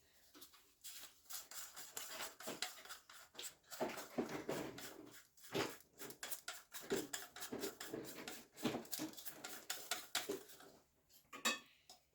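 Plastic toilet flush-valve parts being handled: a string of light clicks, taps and rustles, with a few sharper knocks.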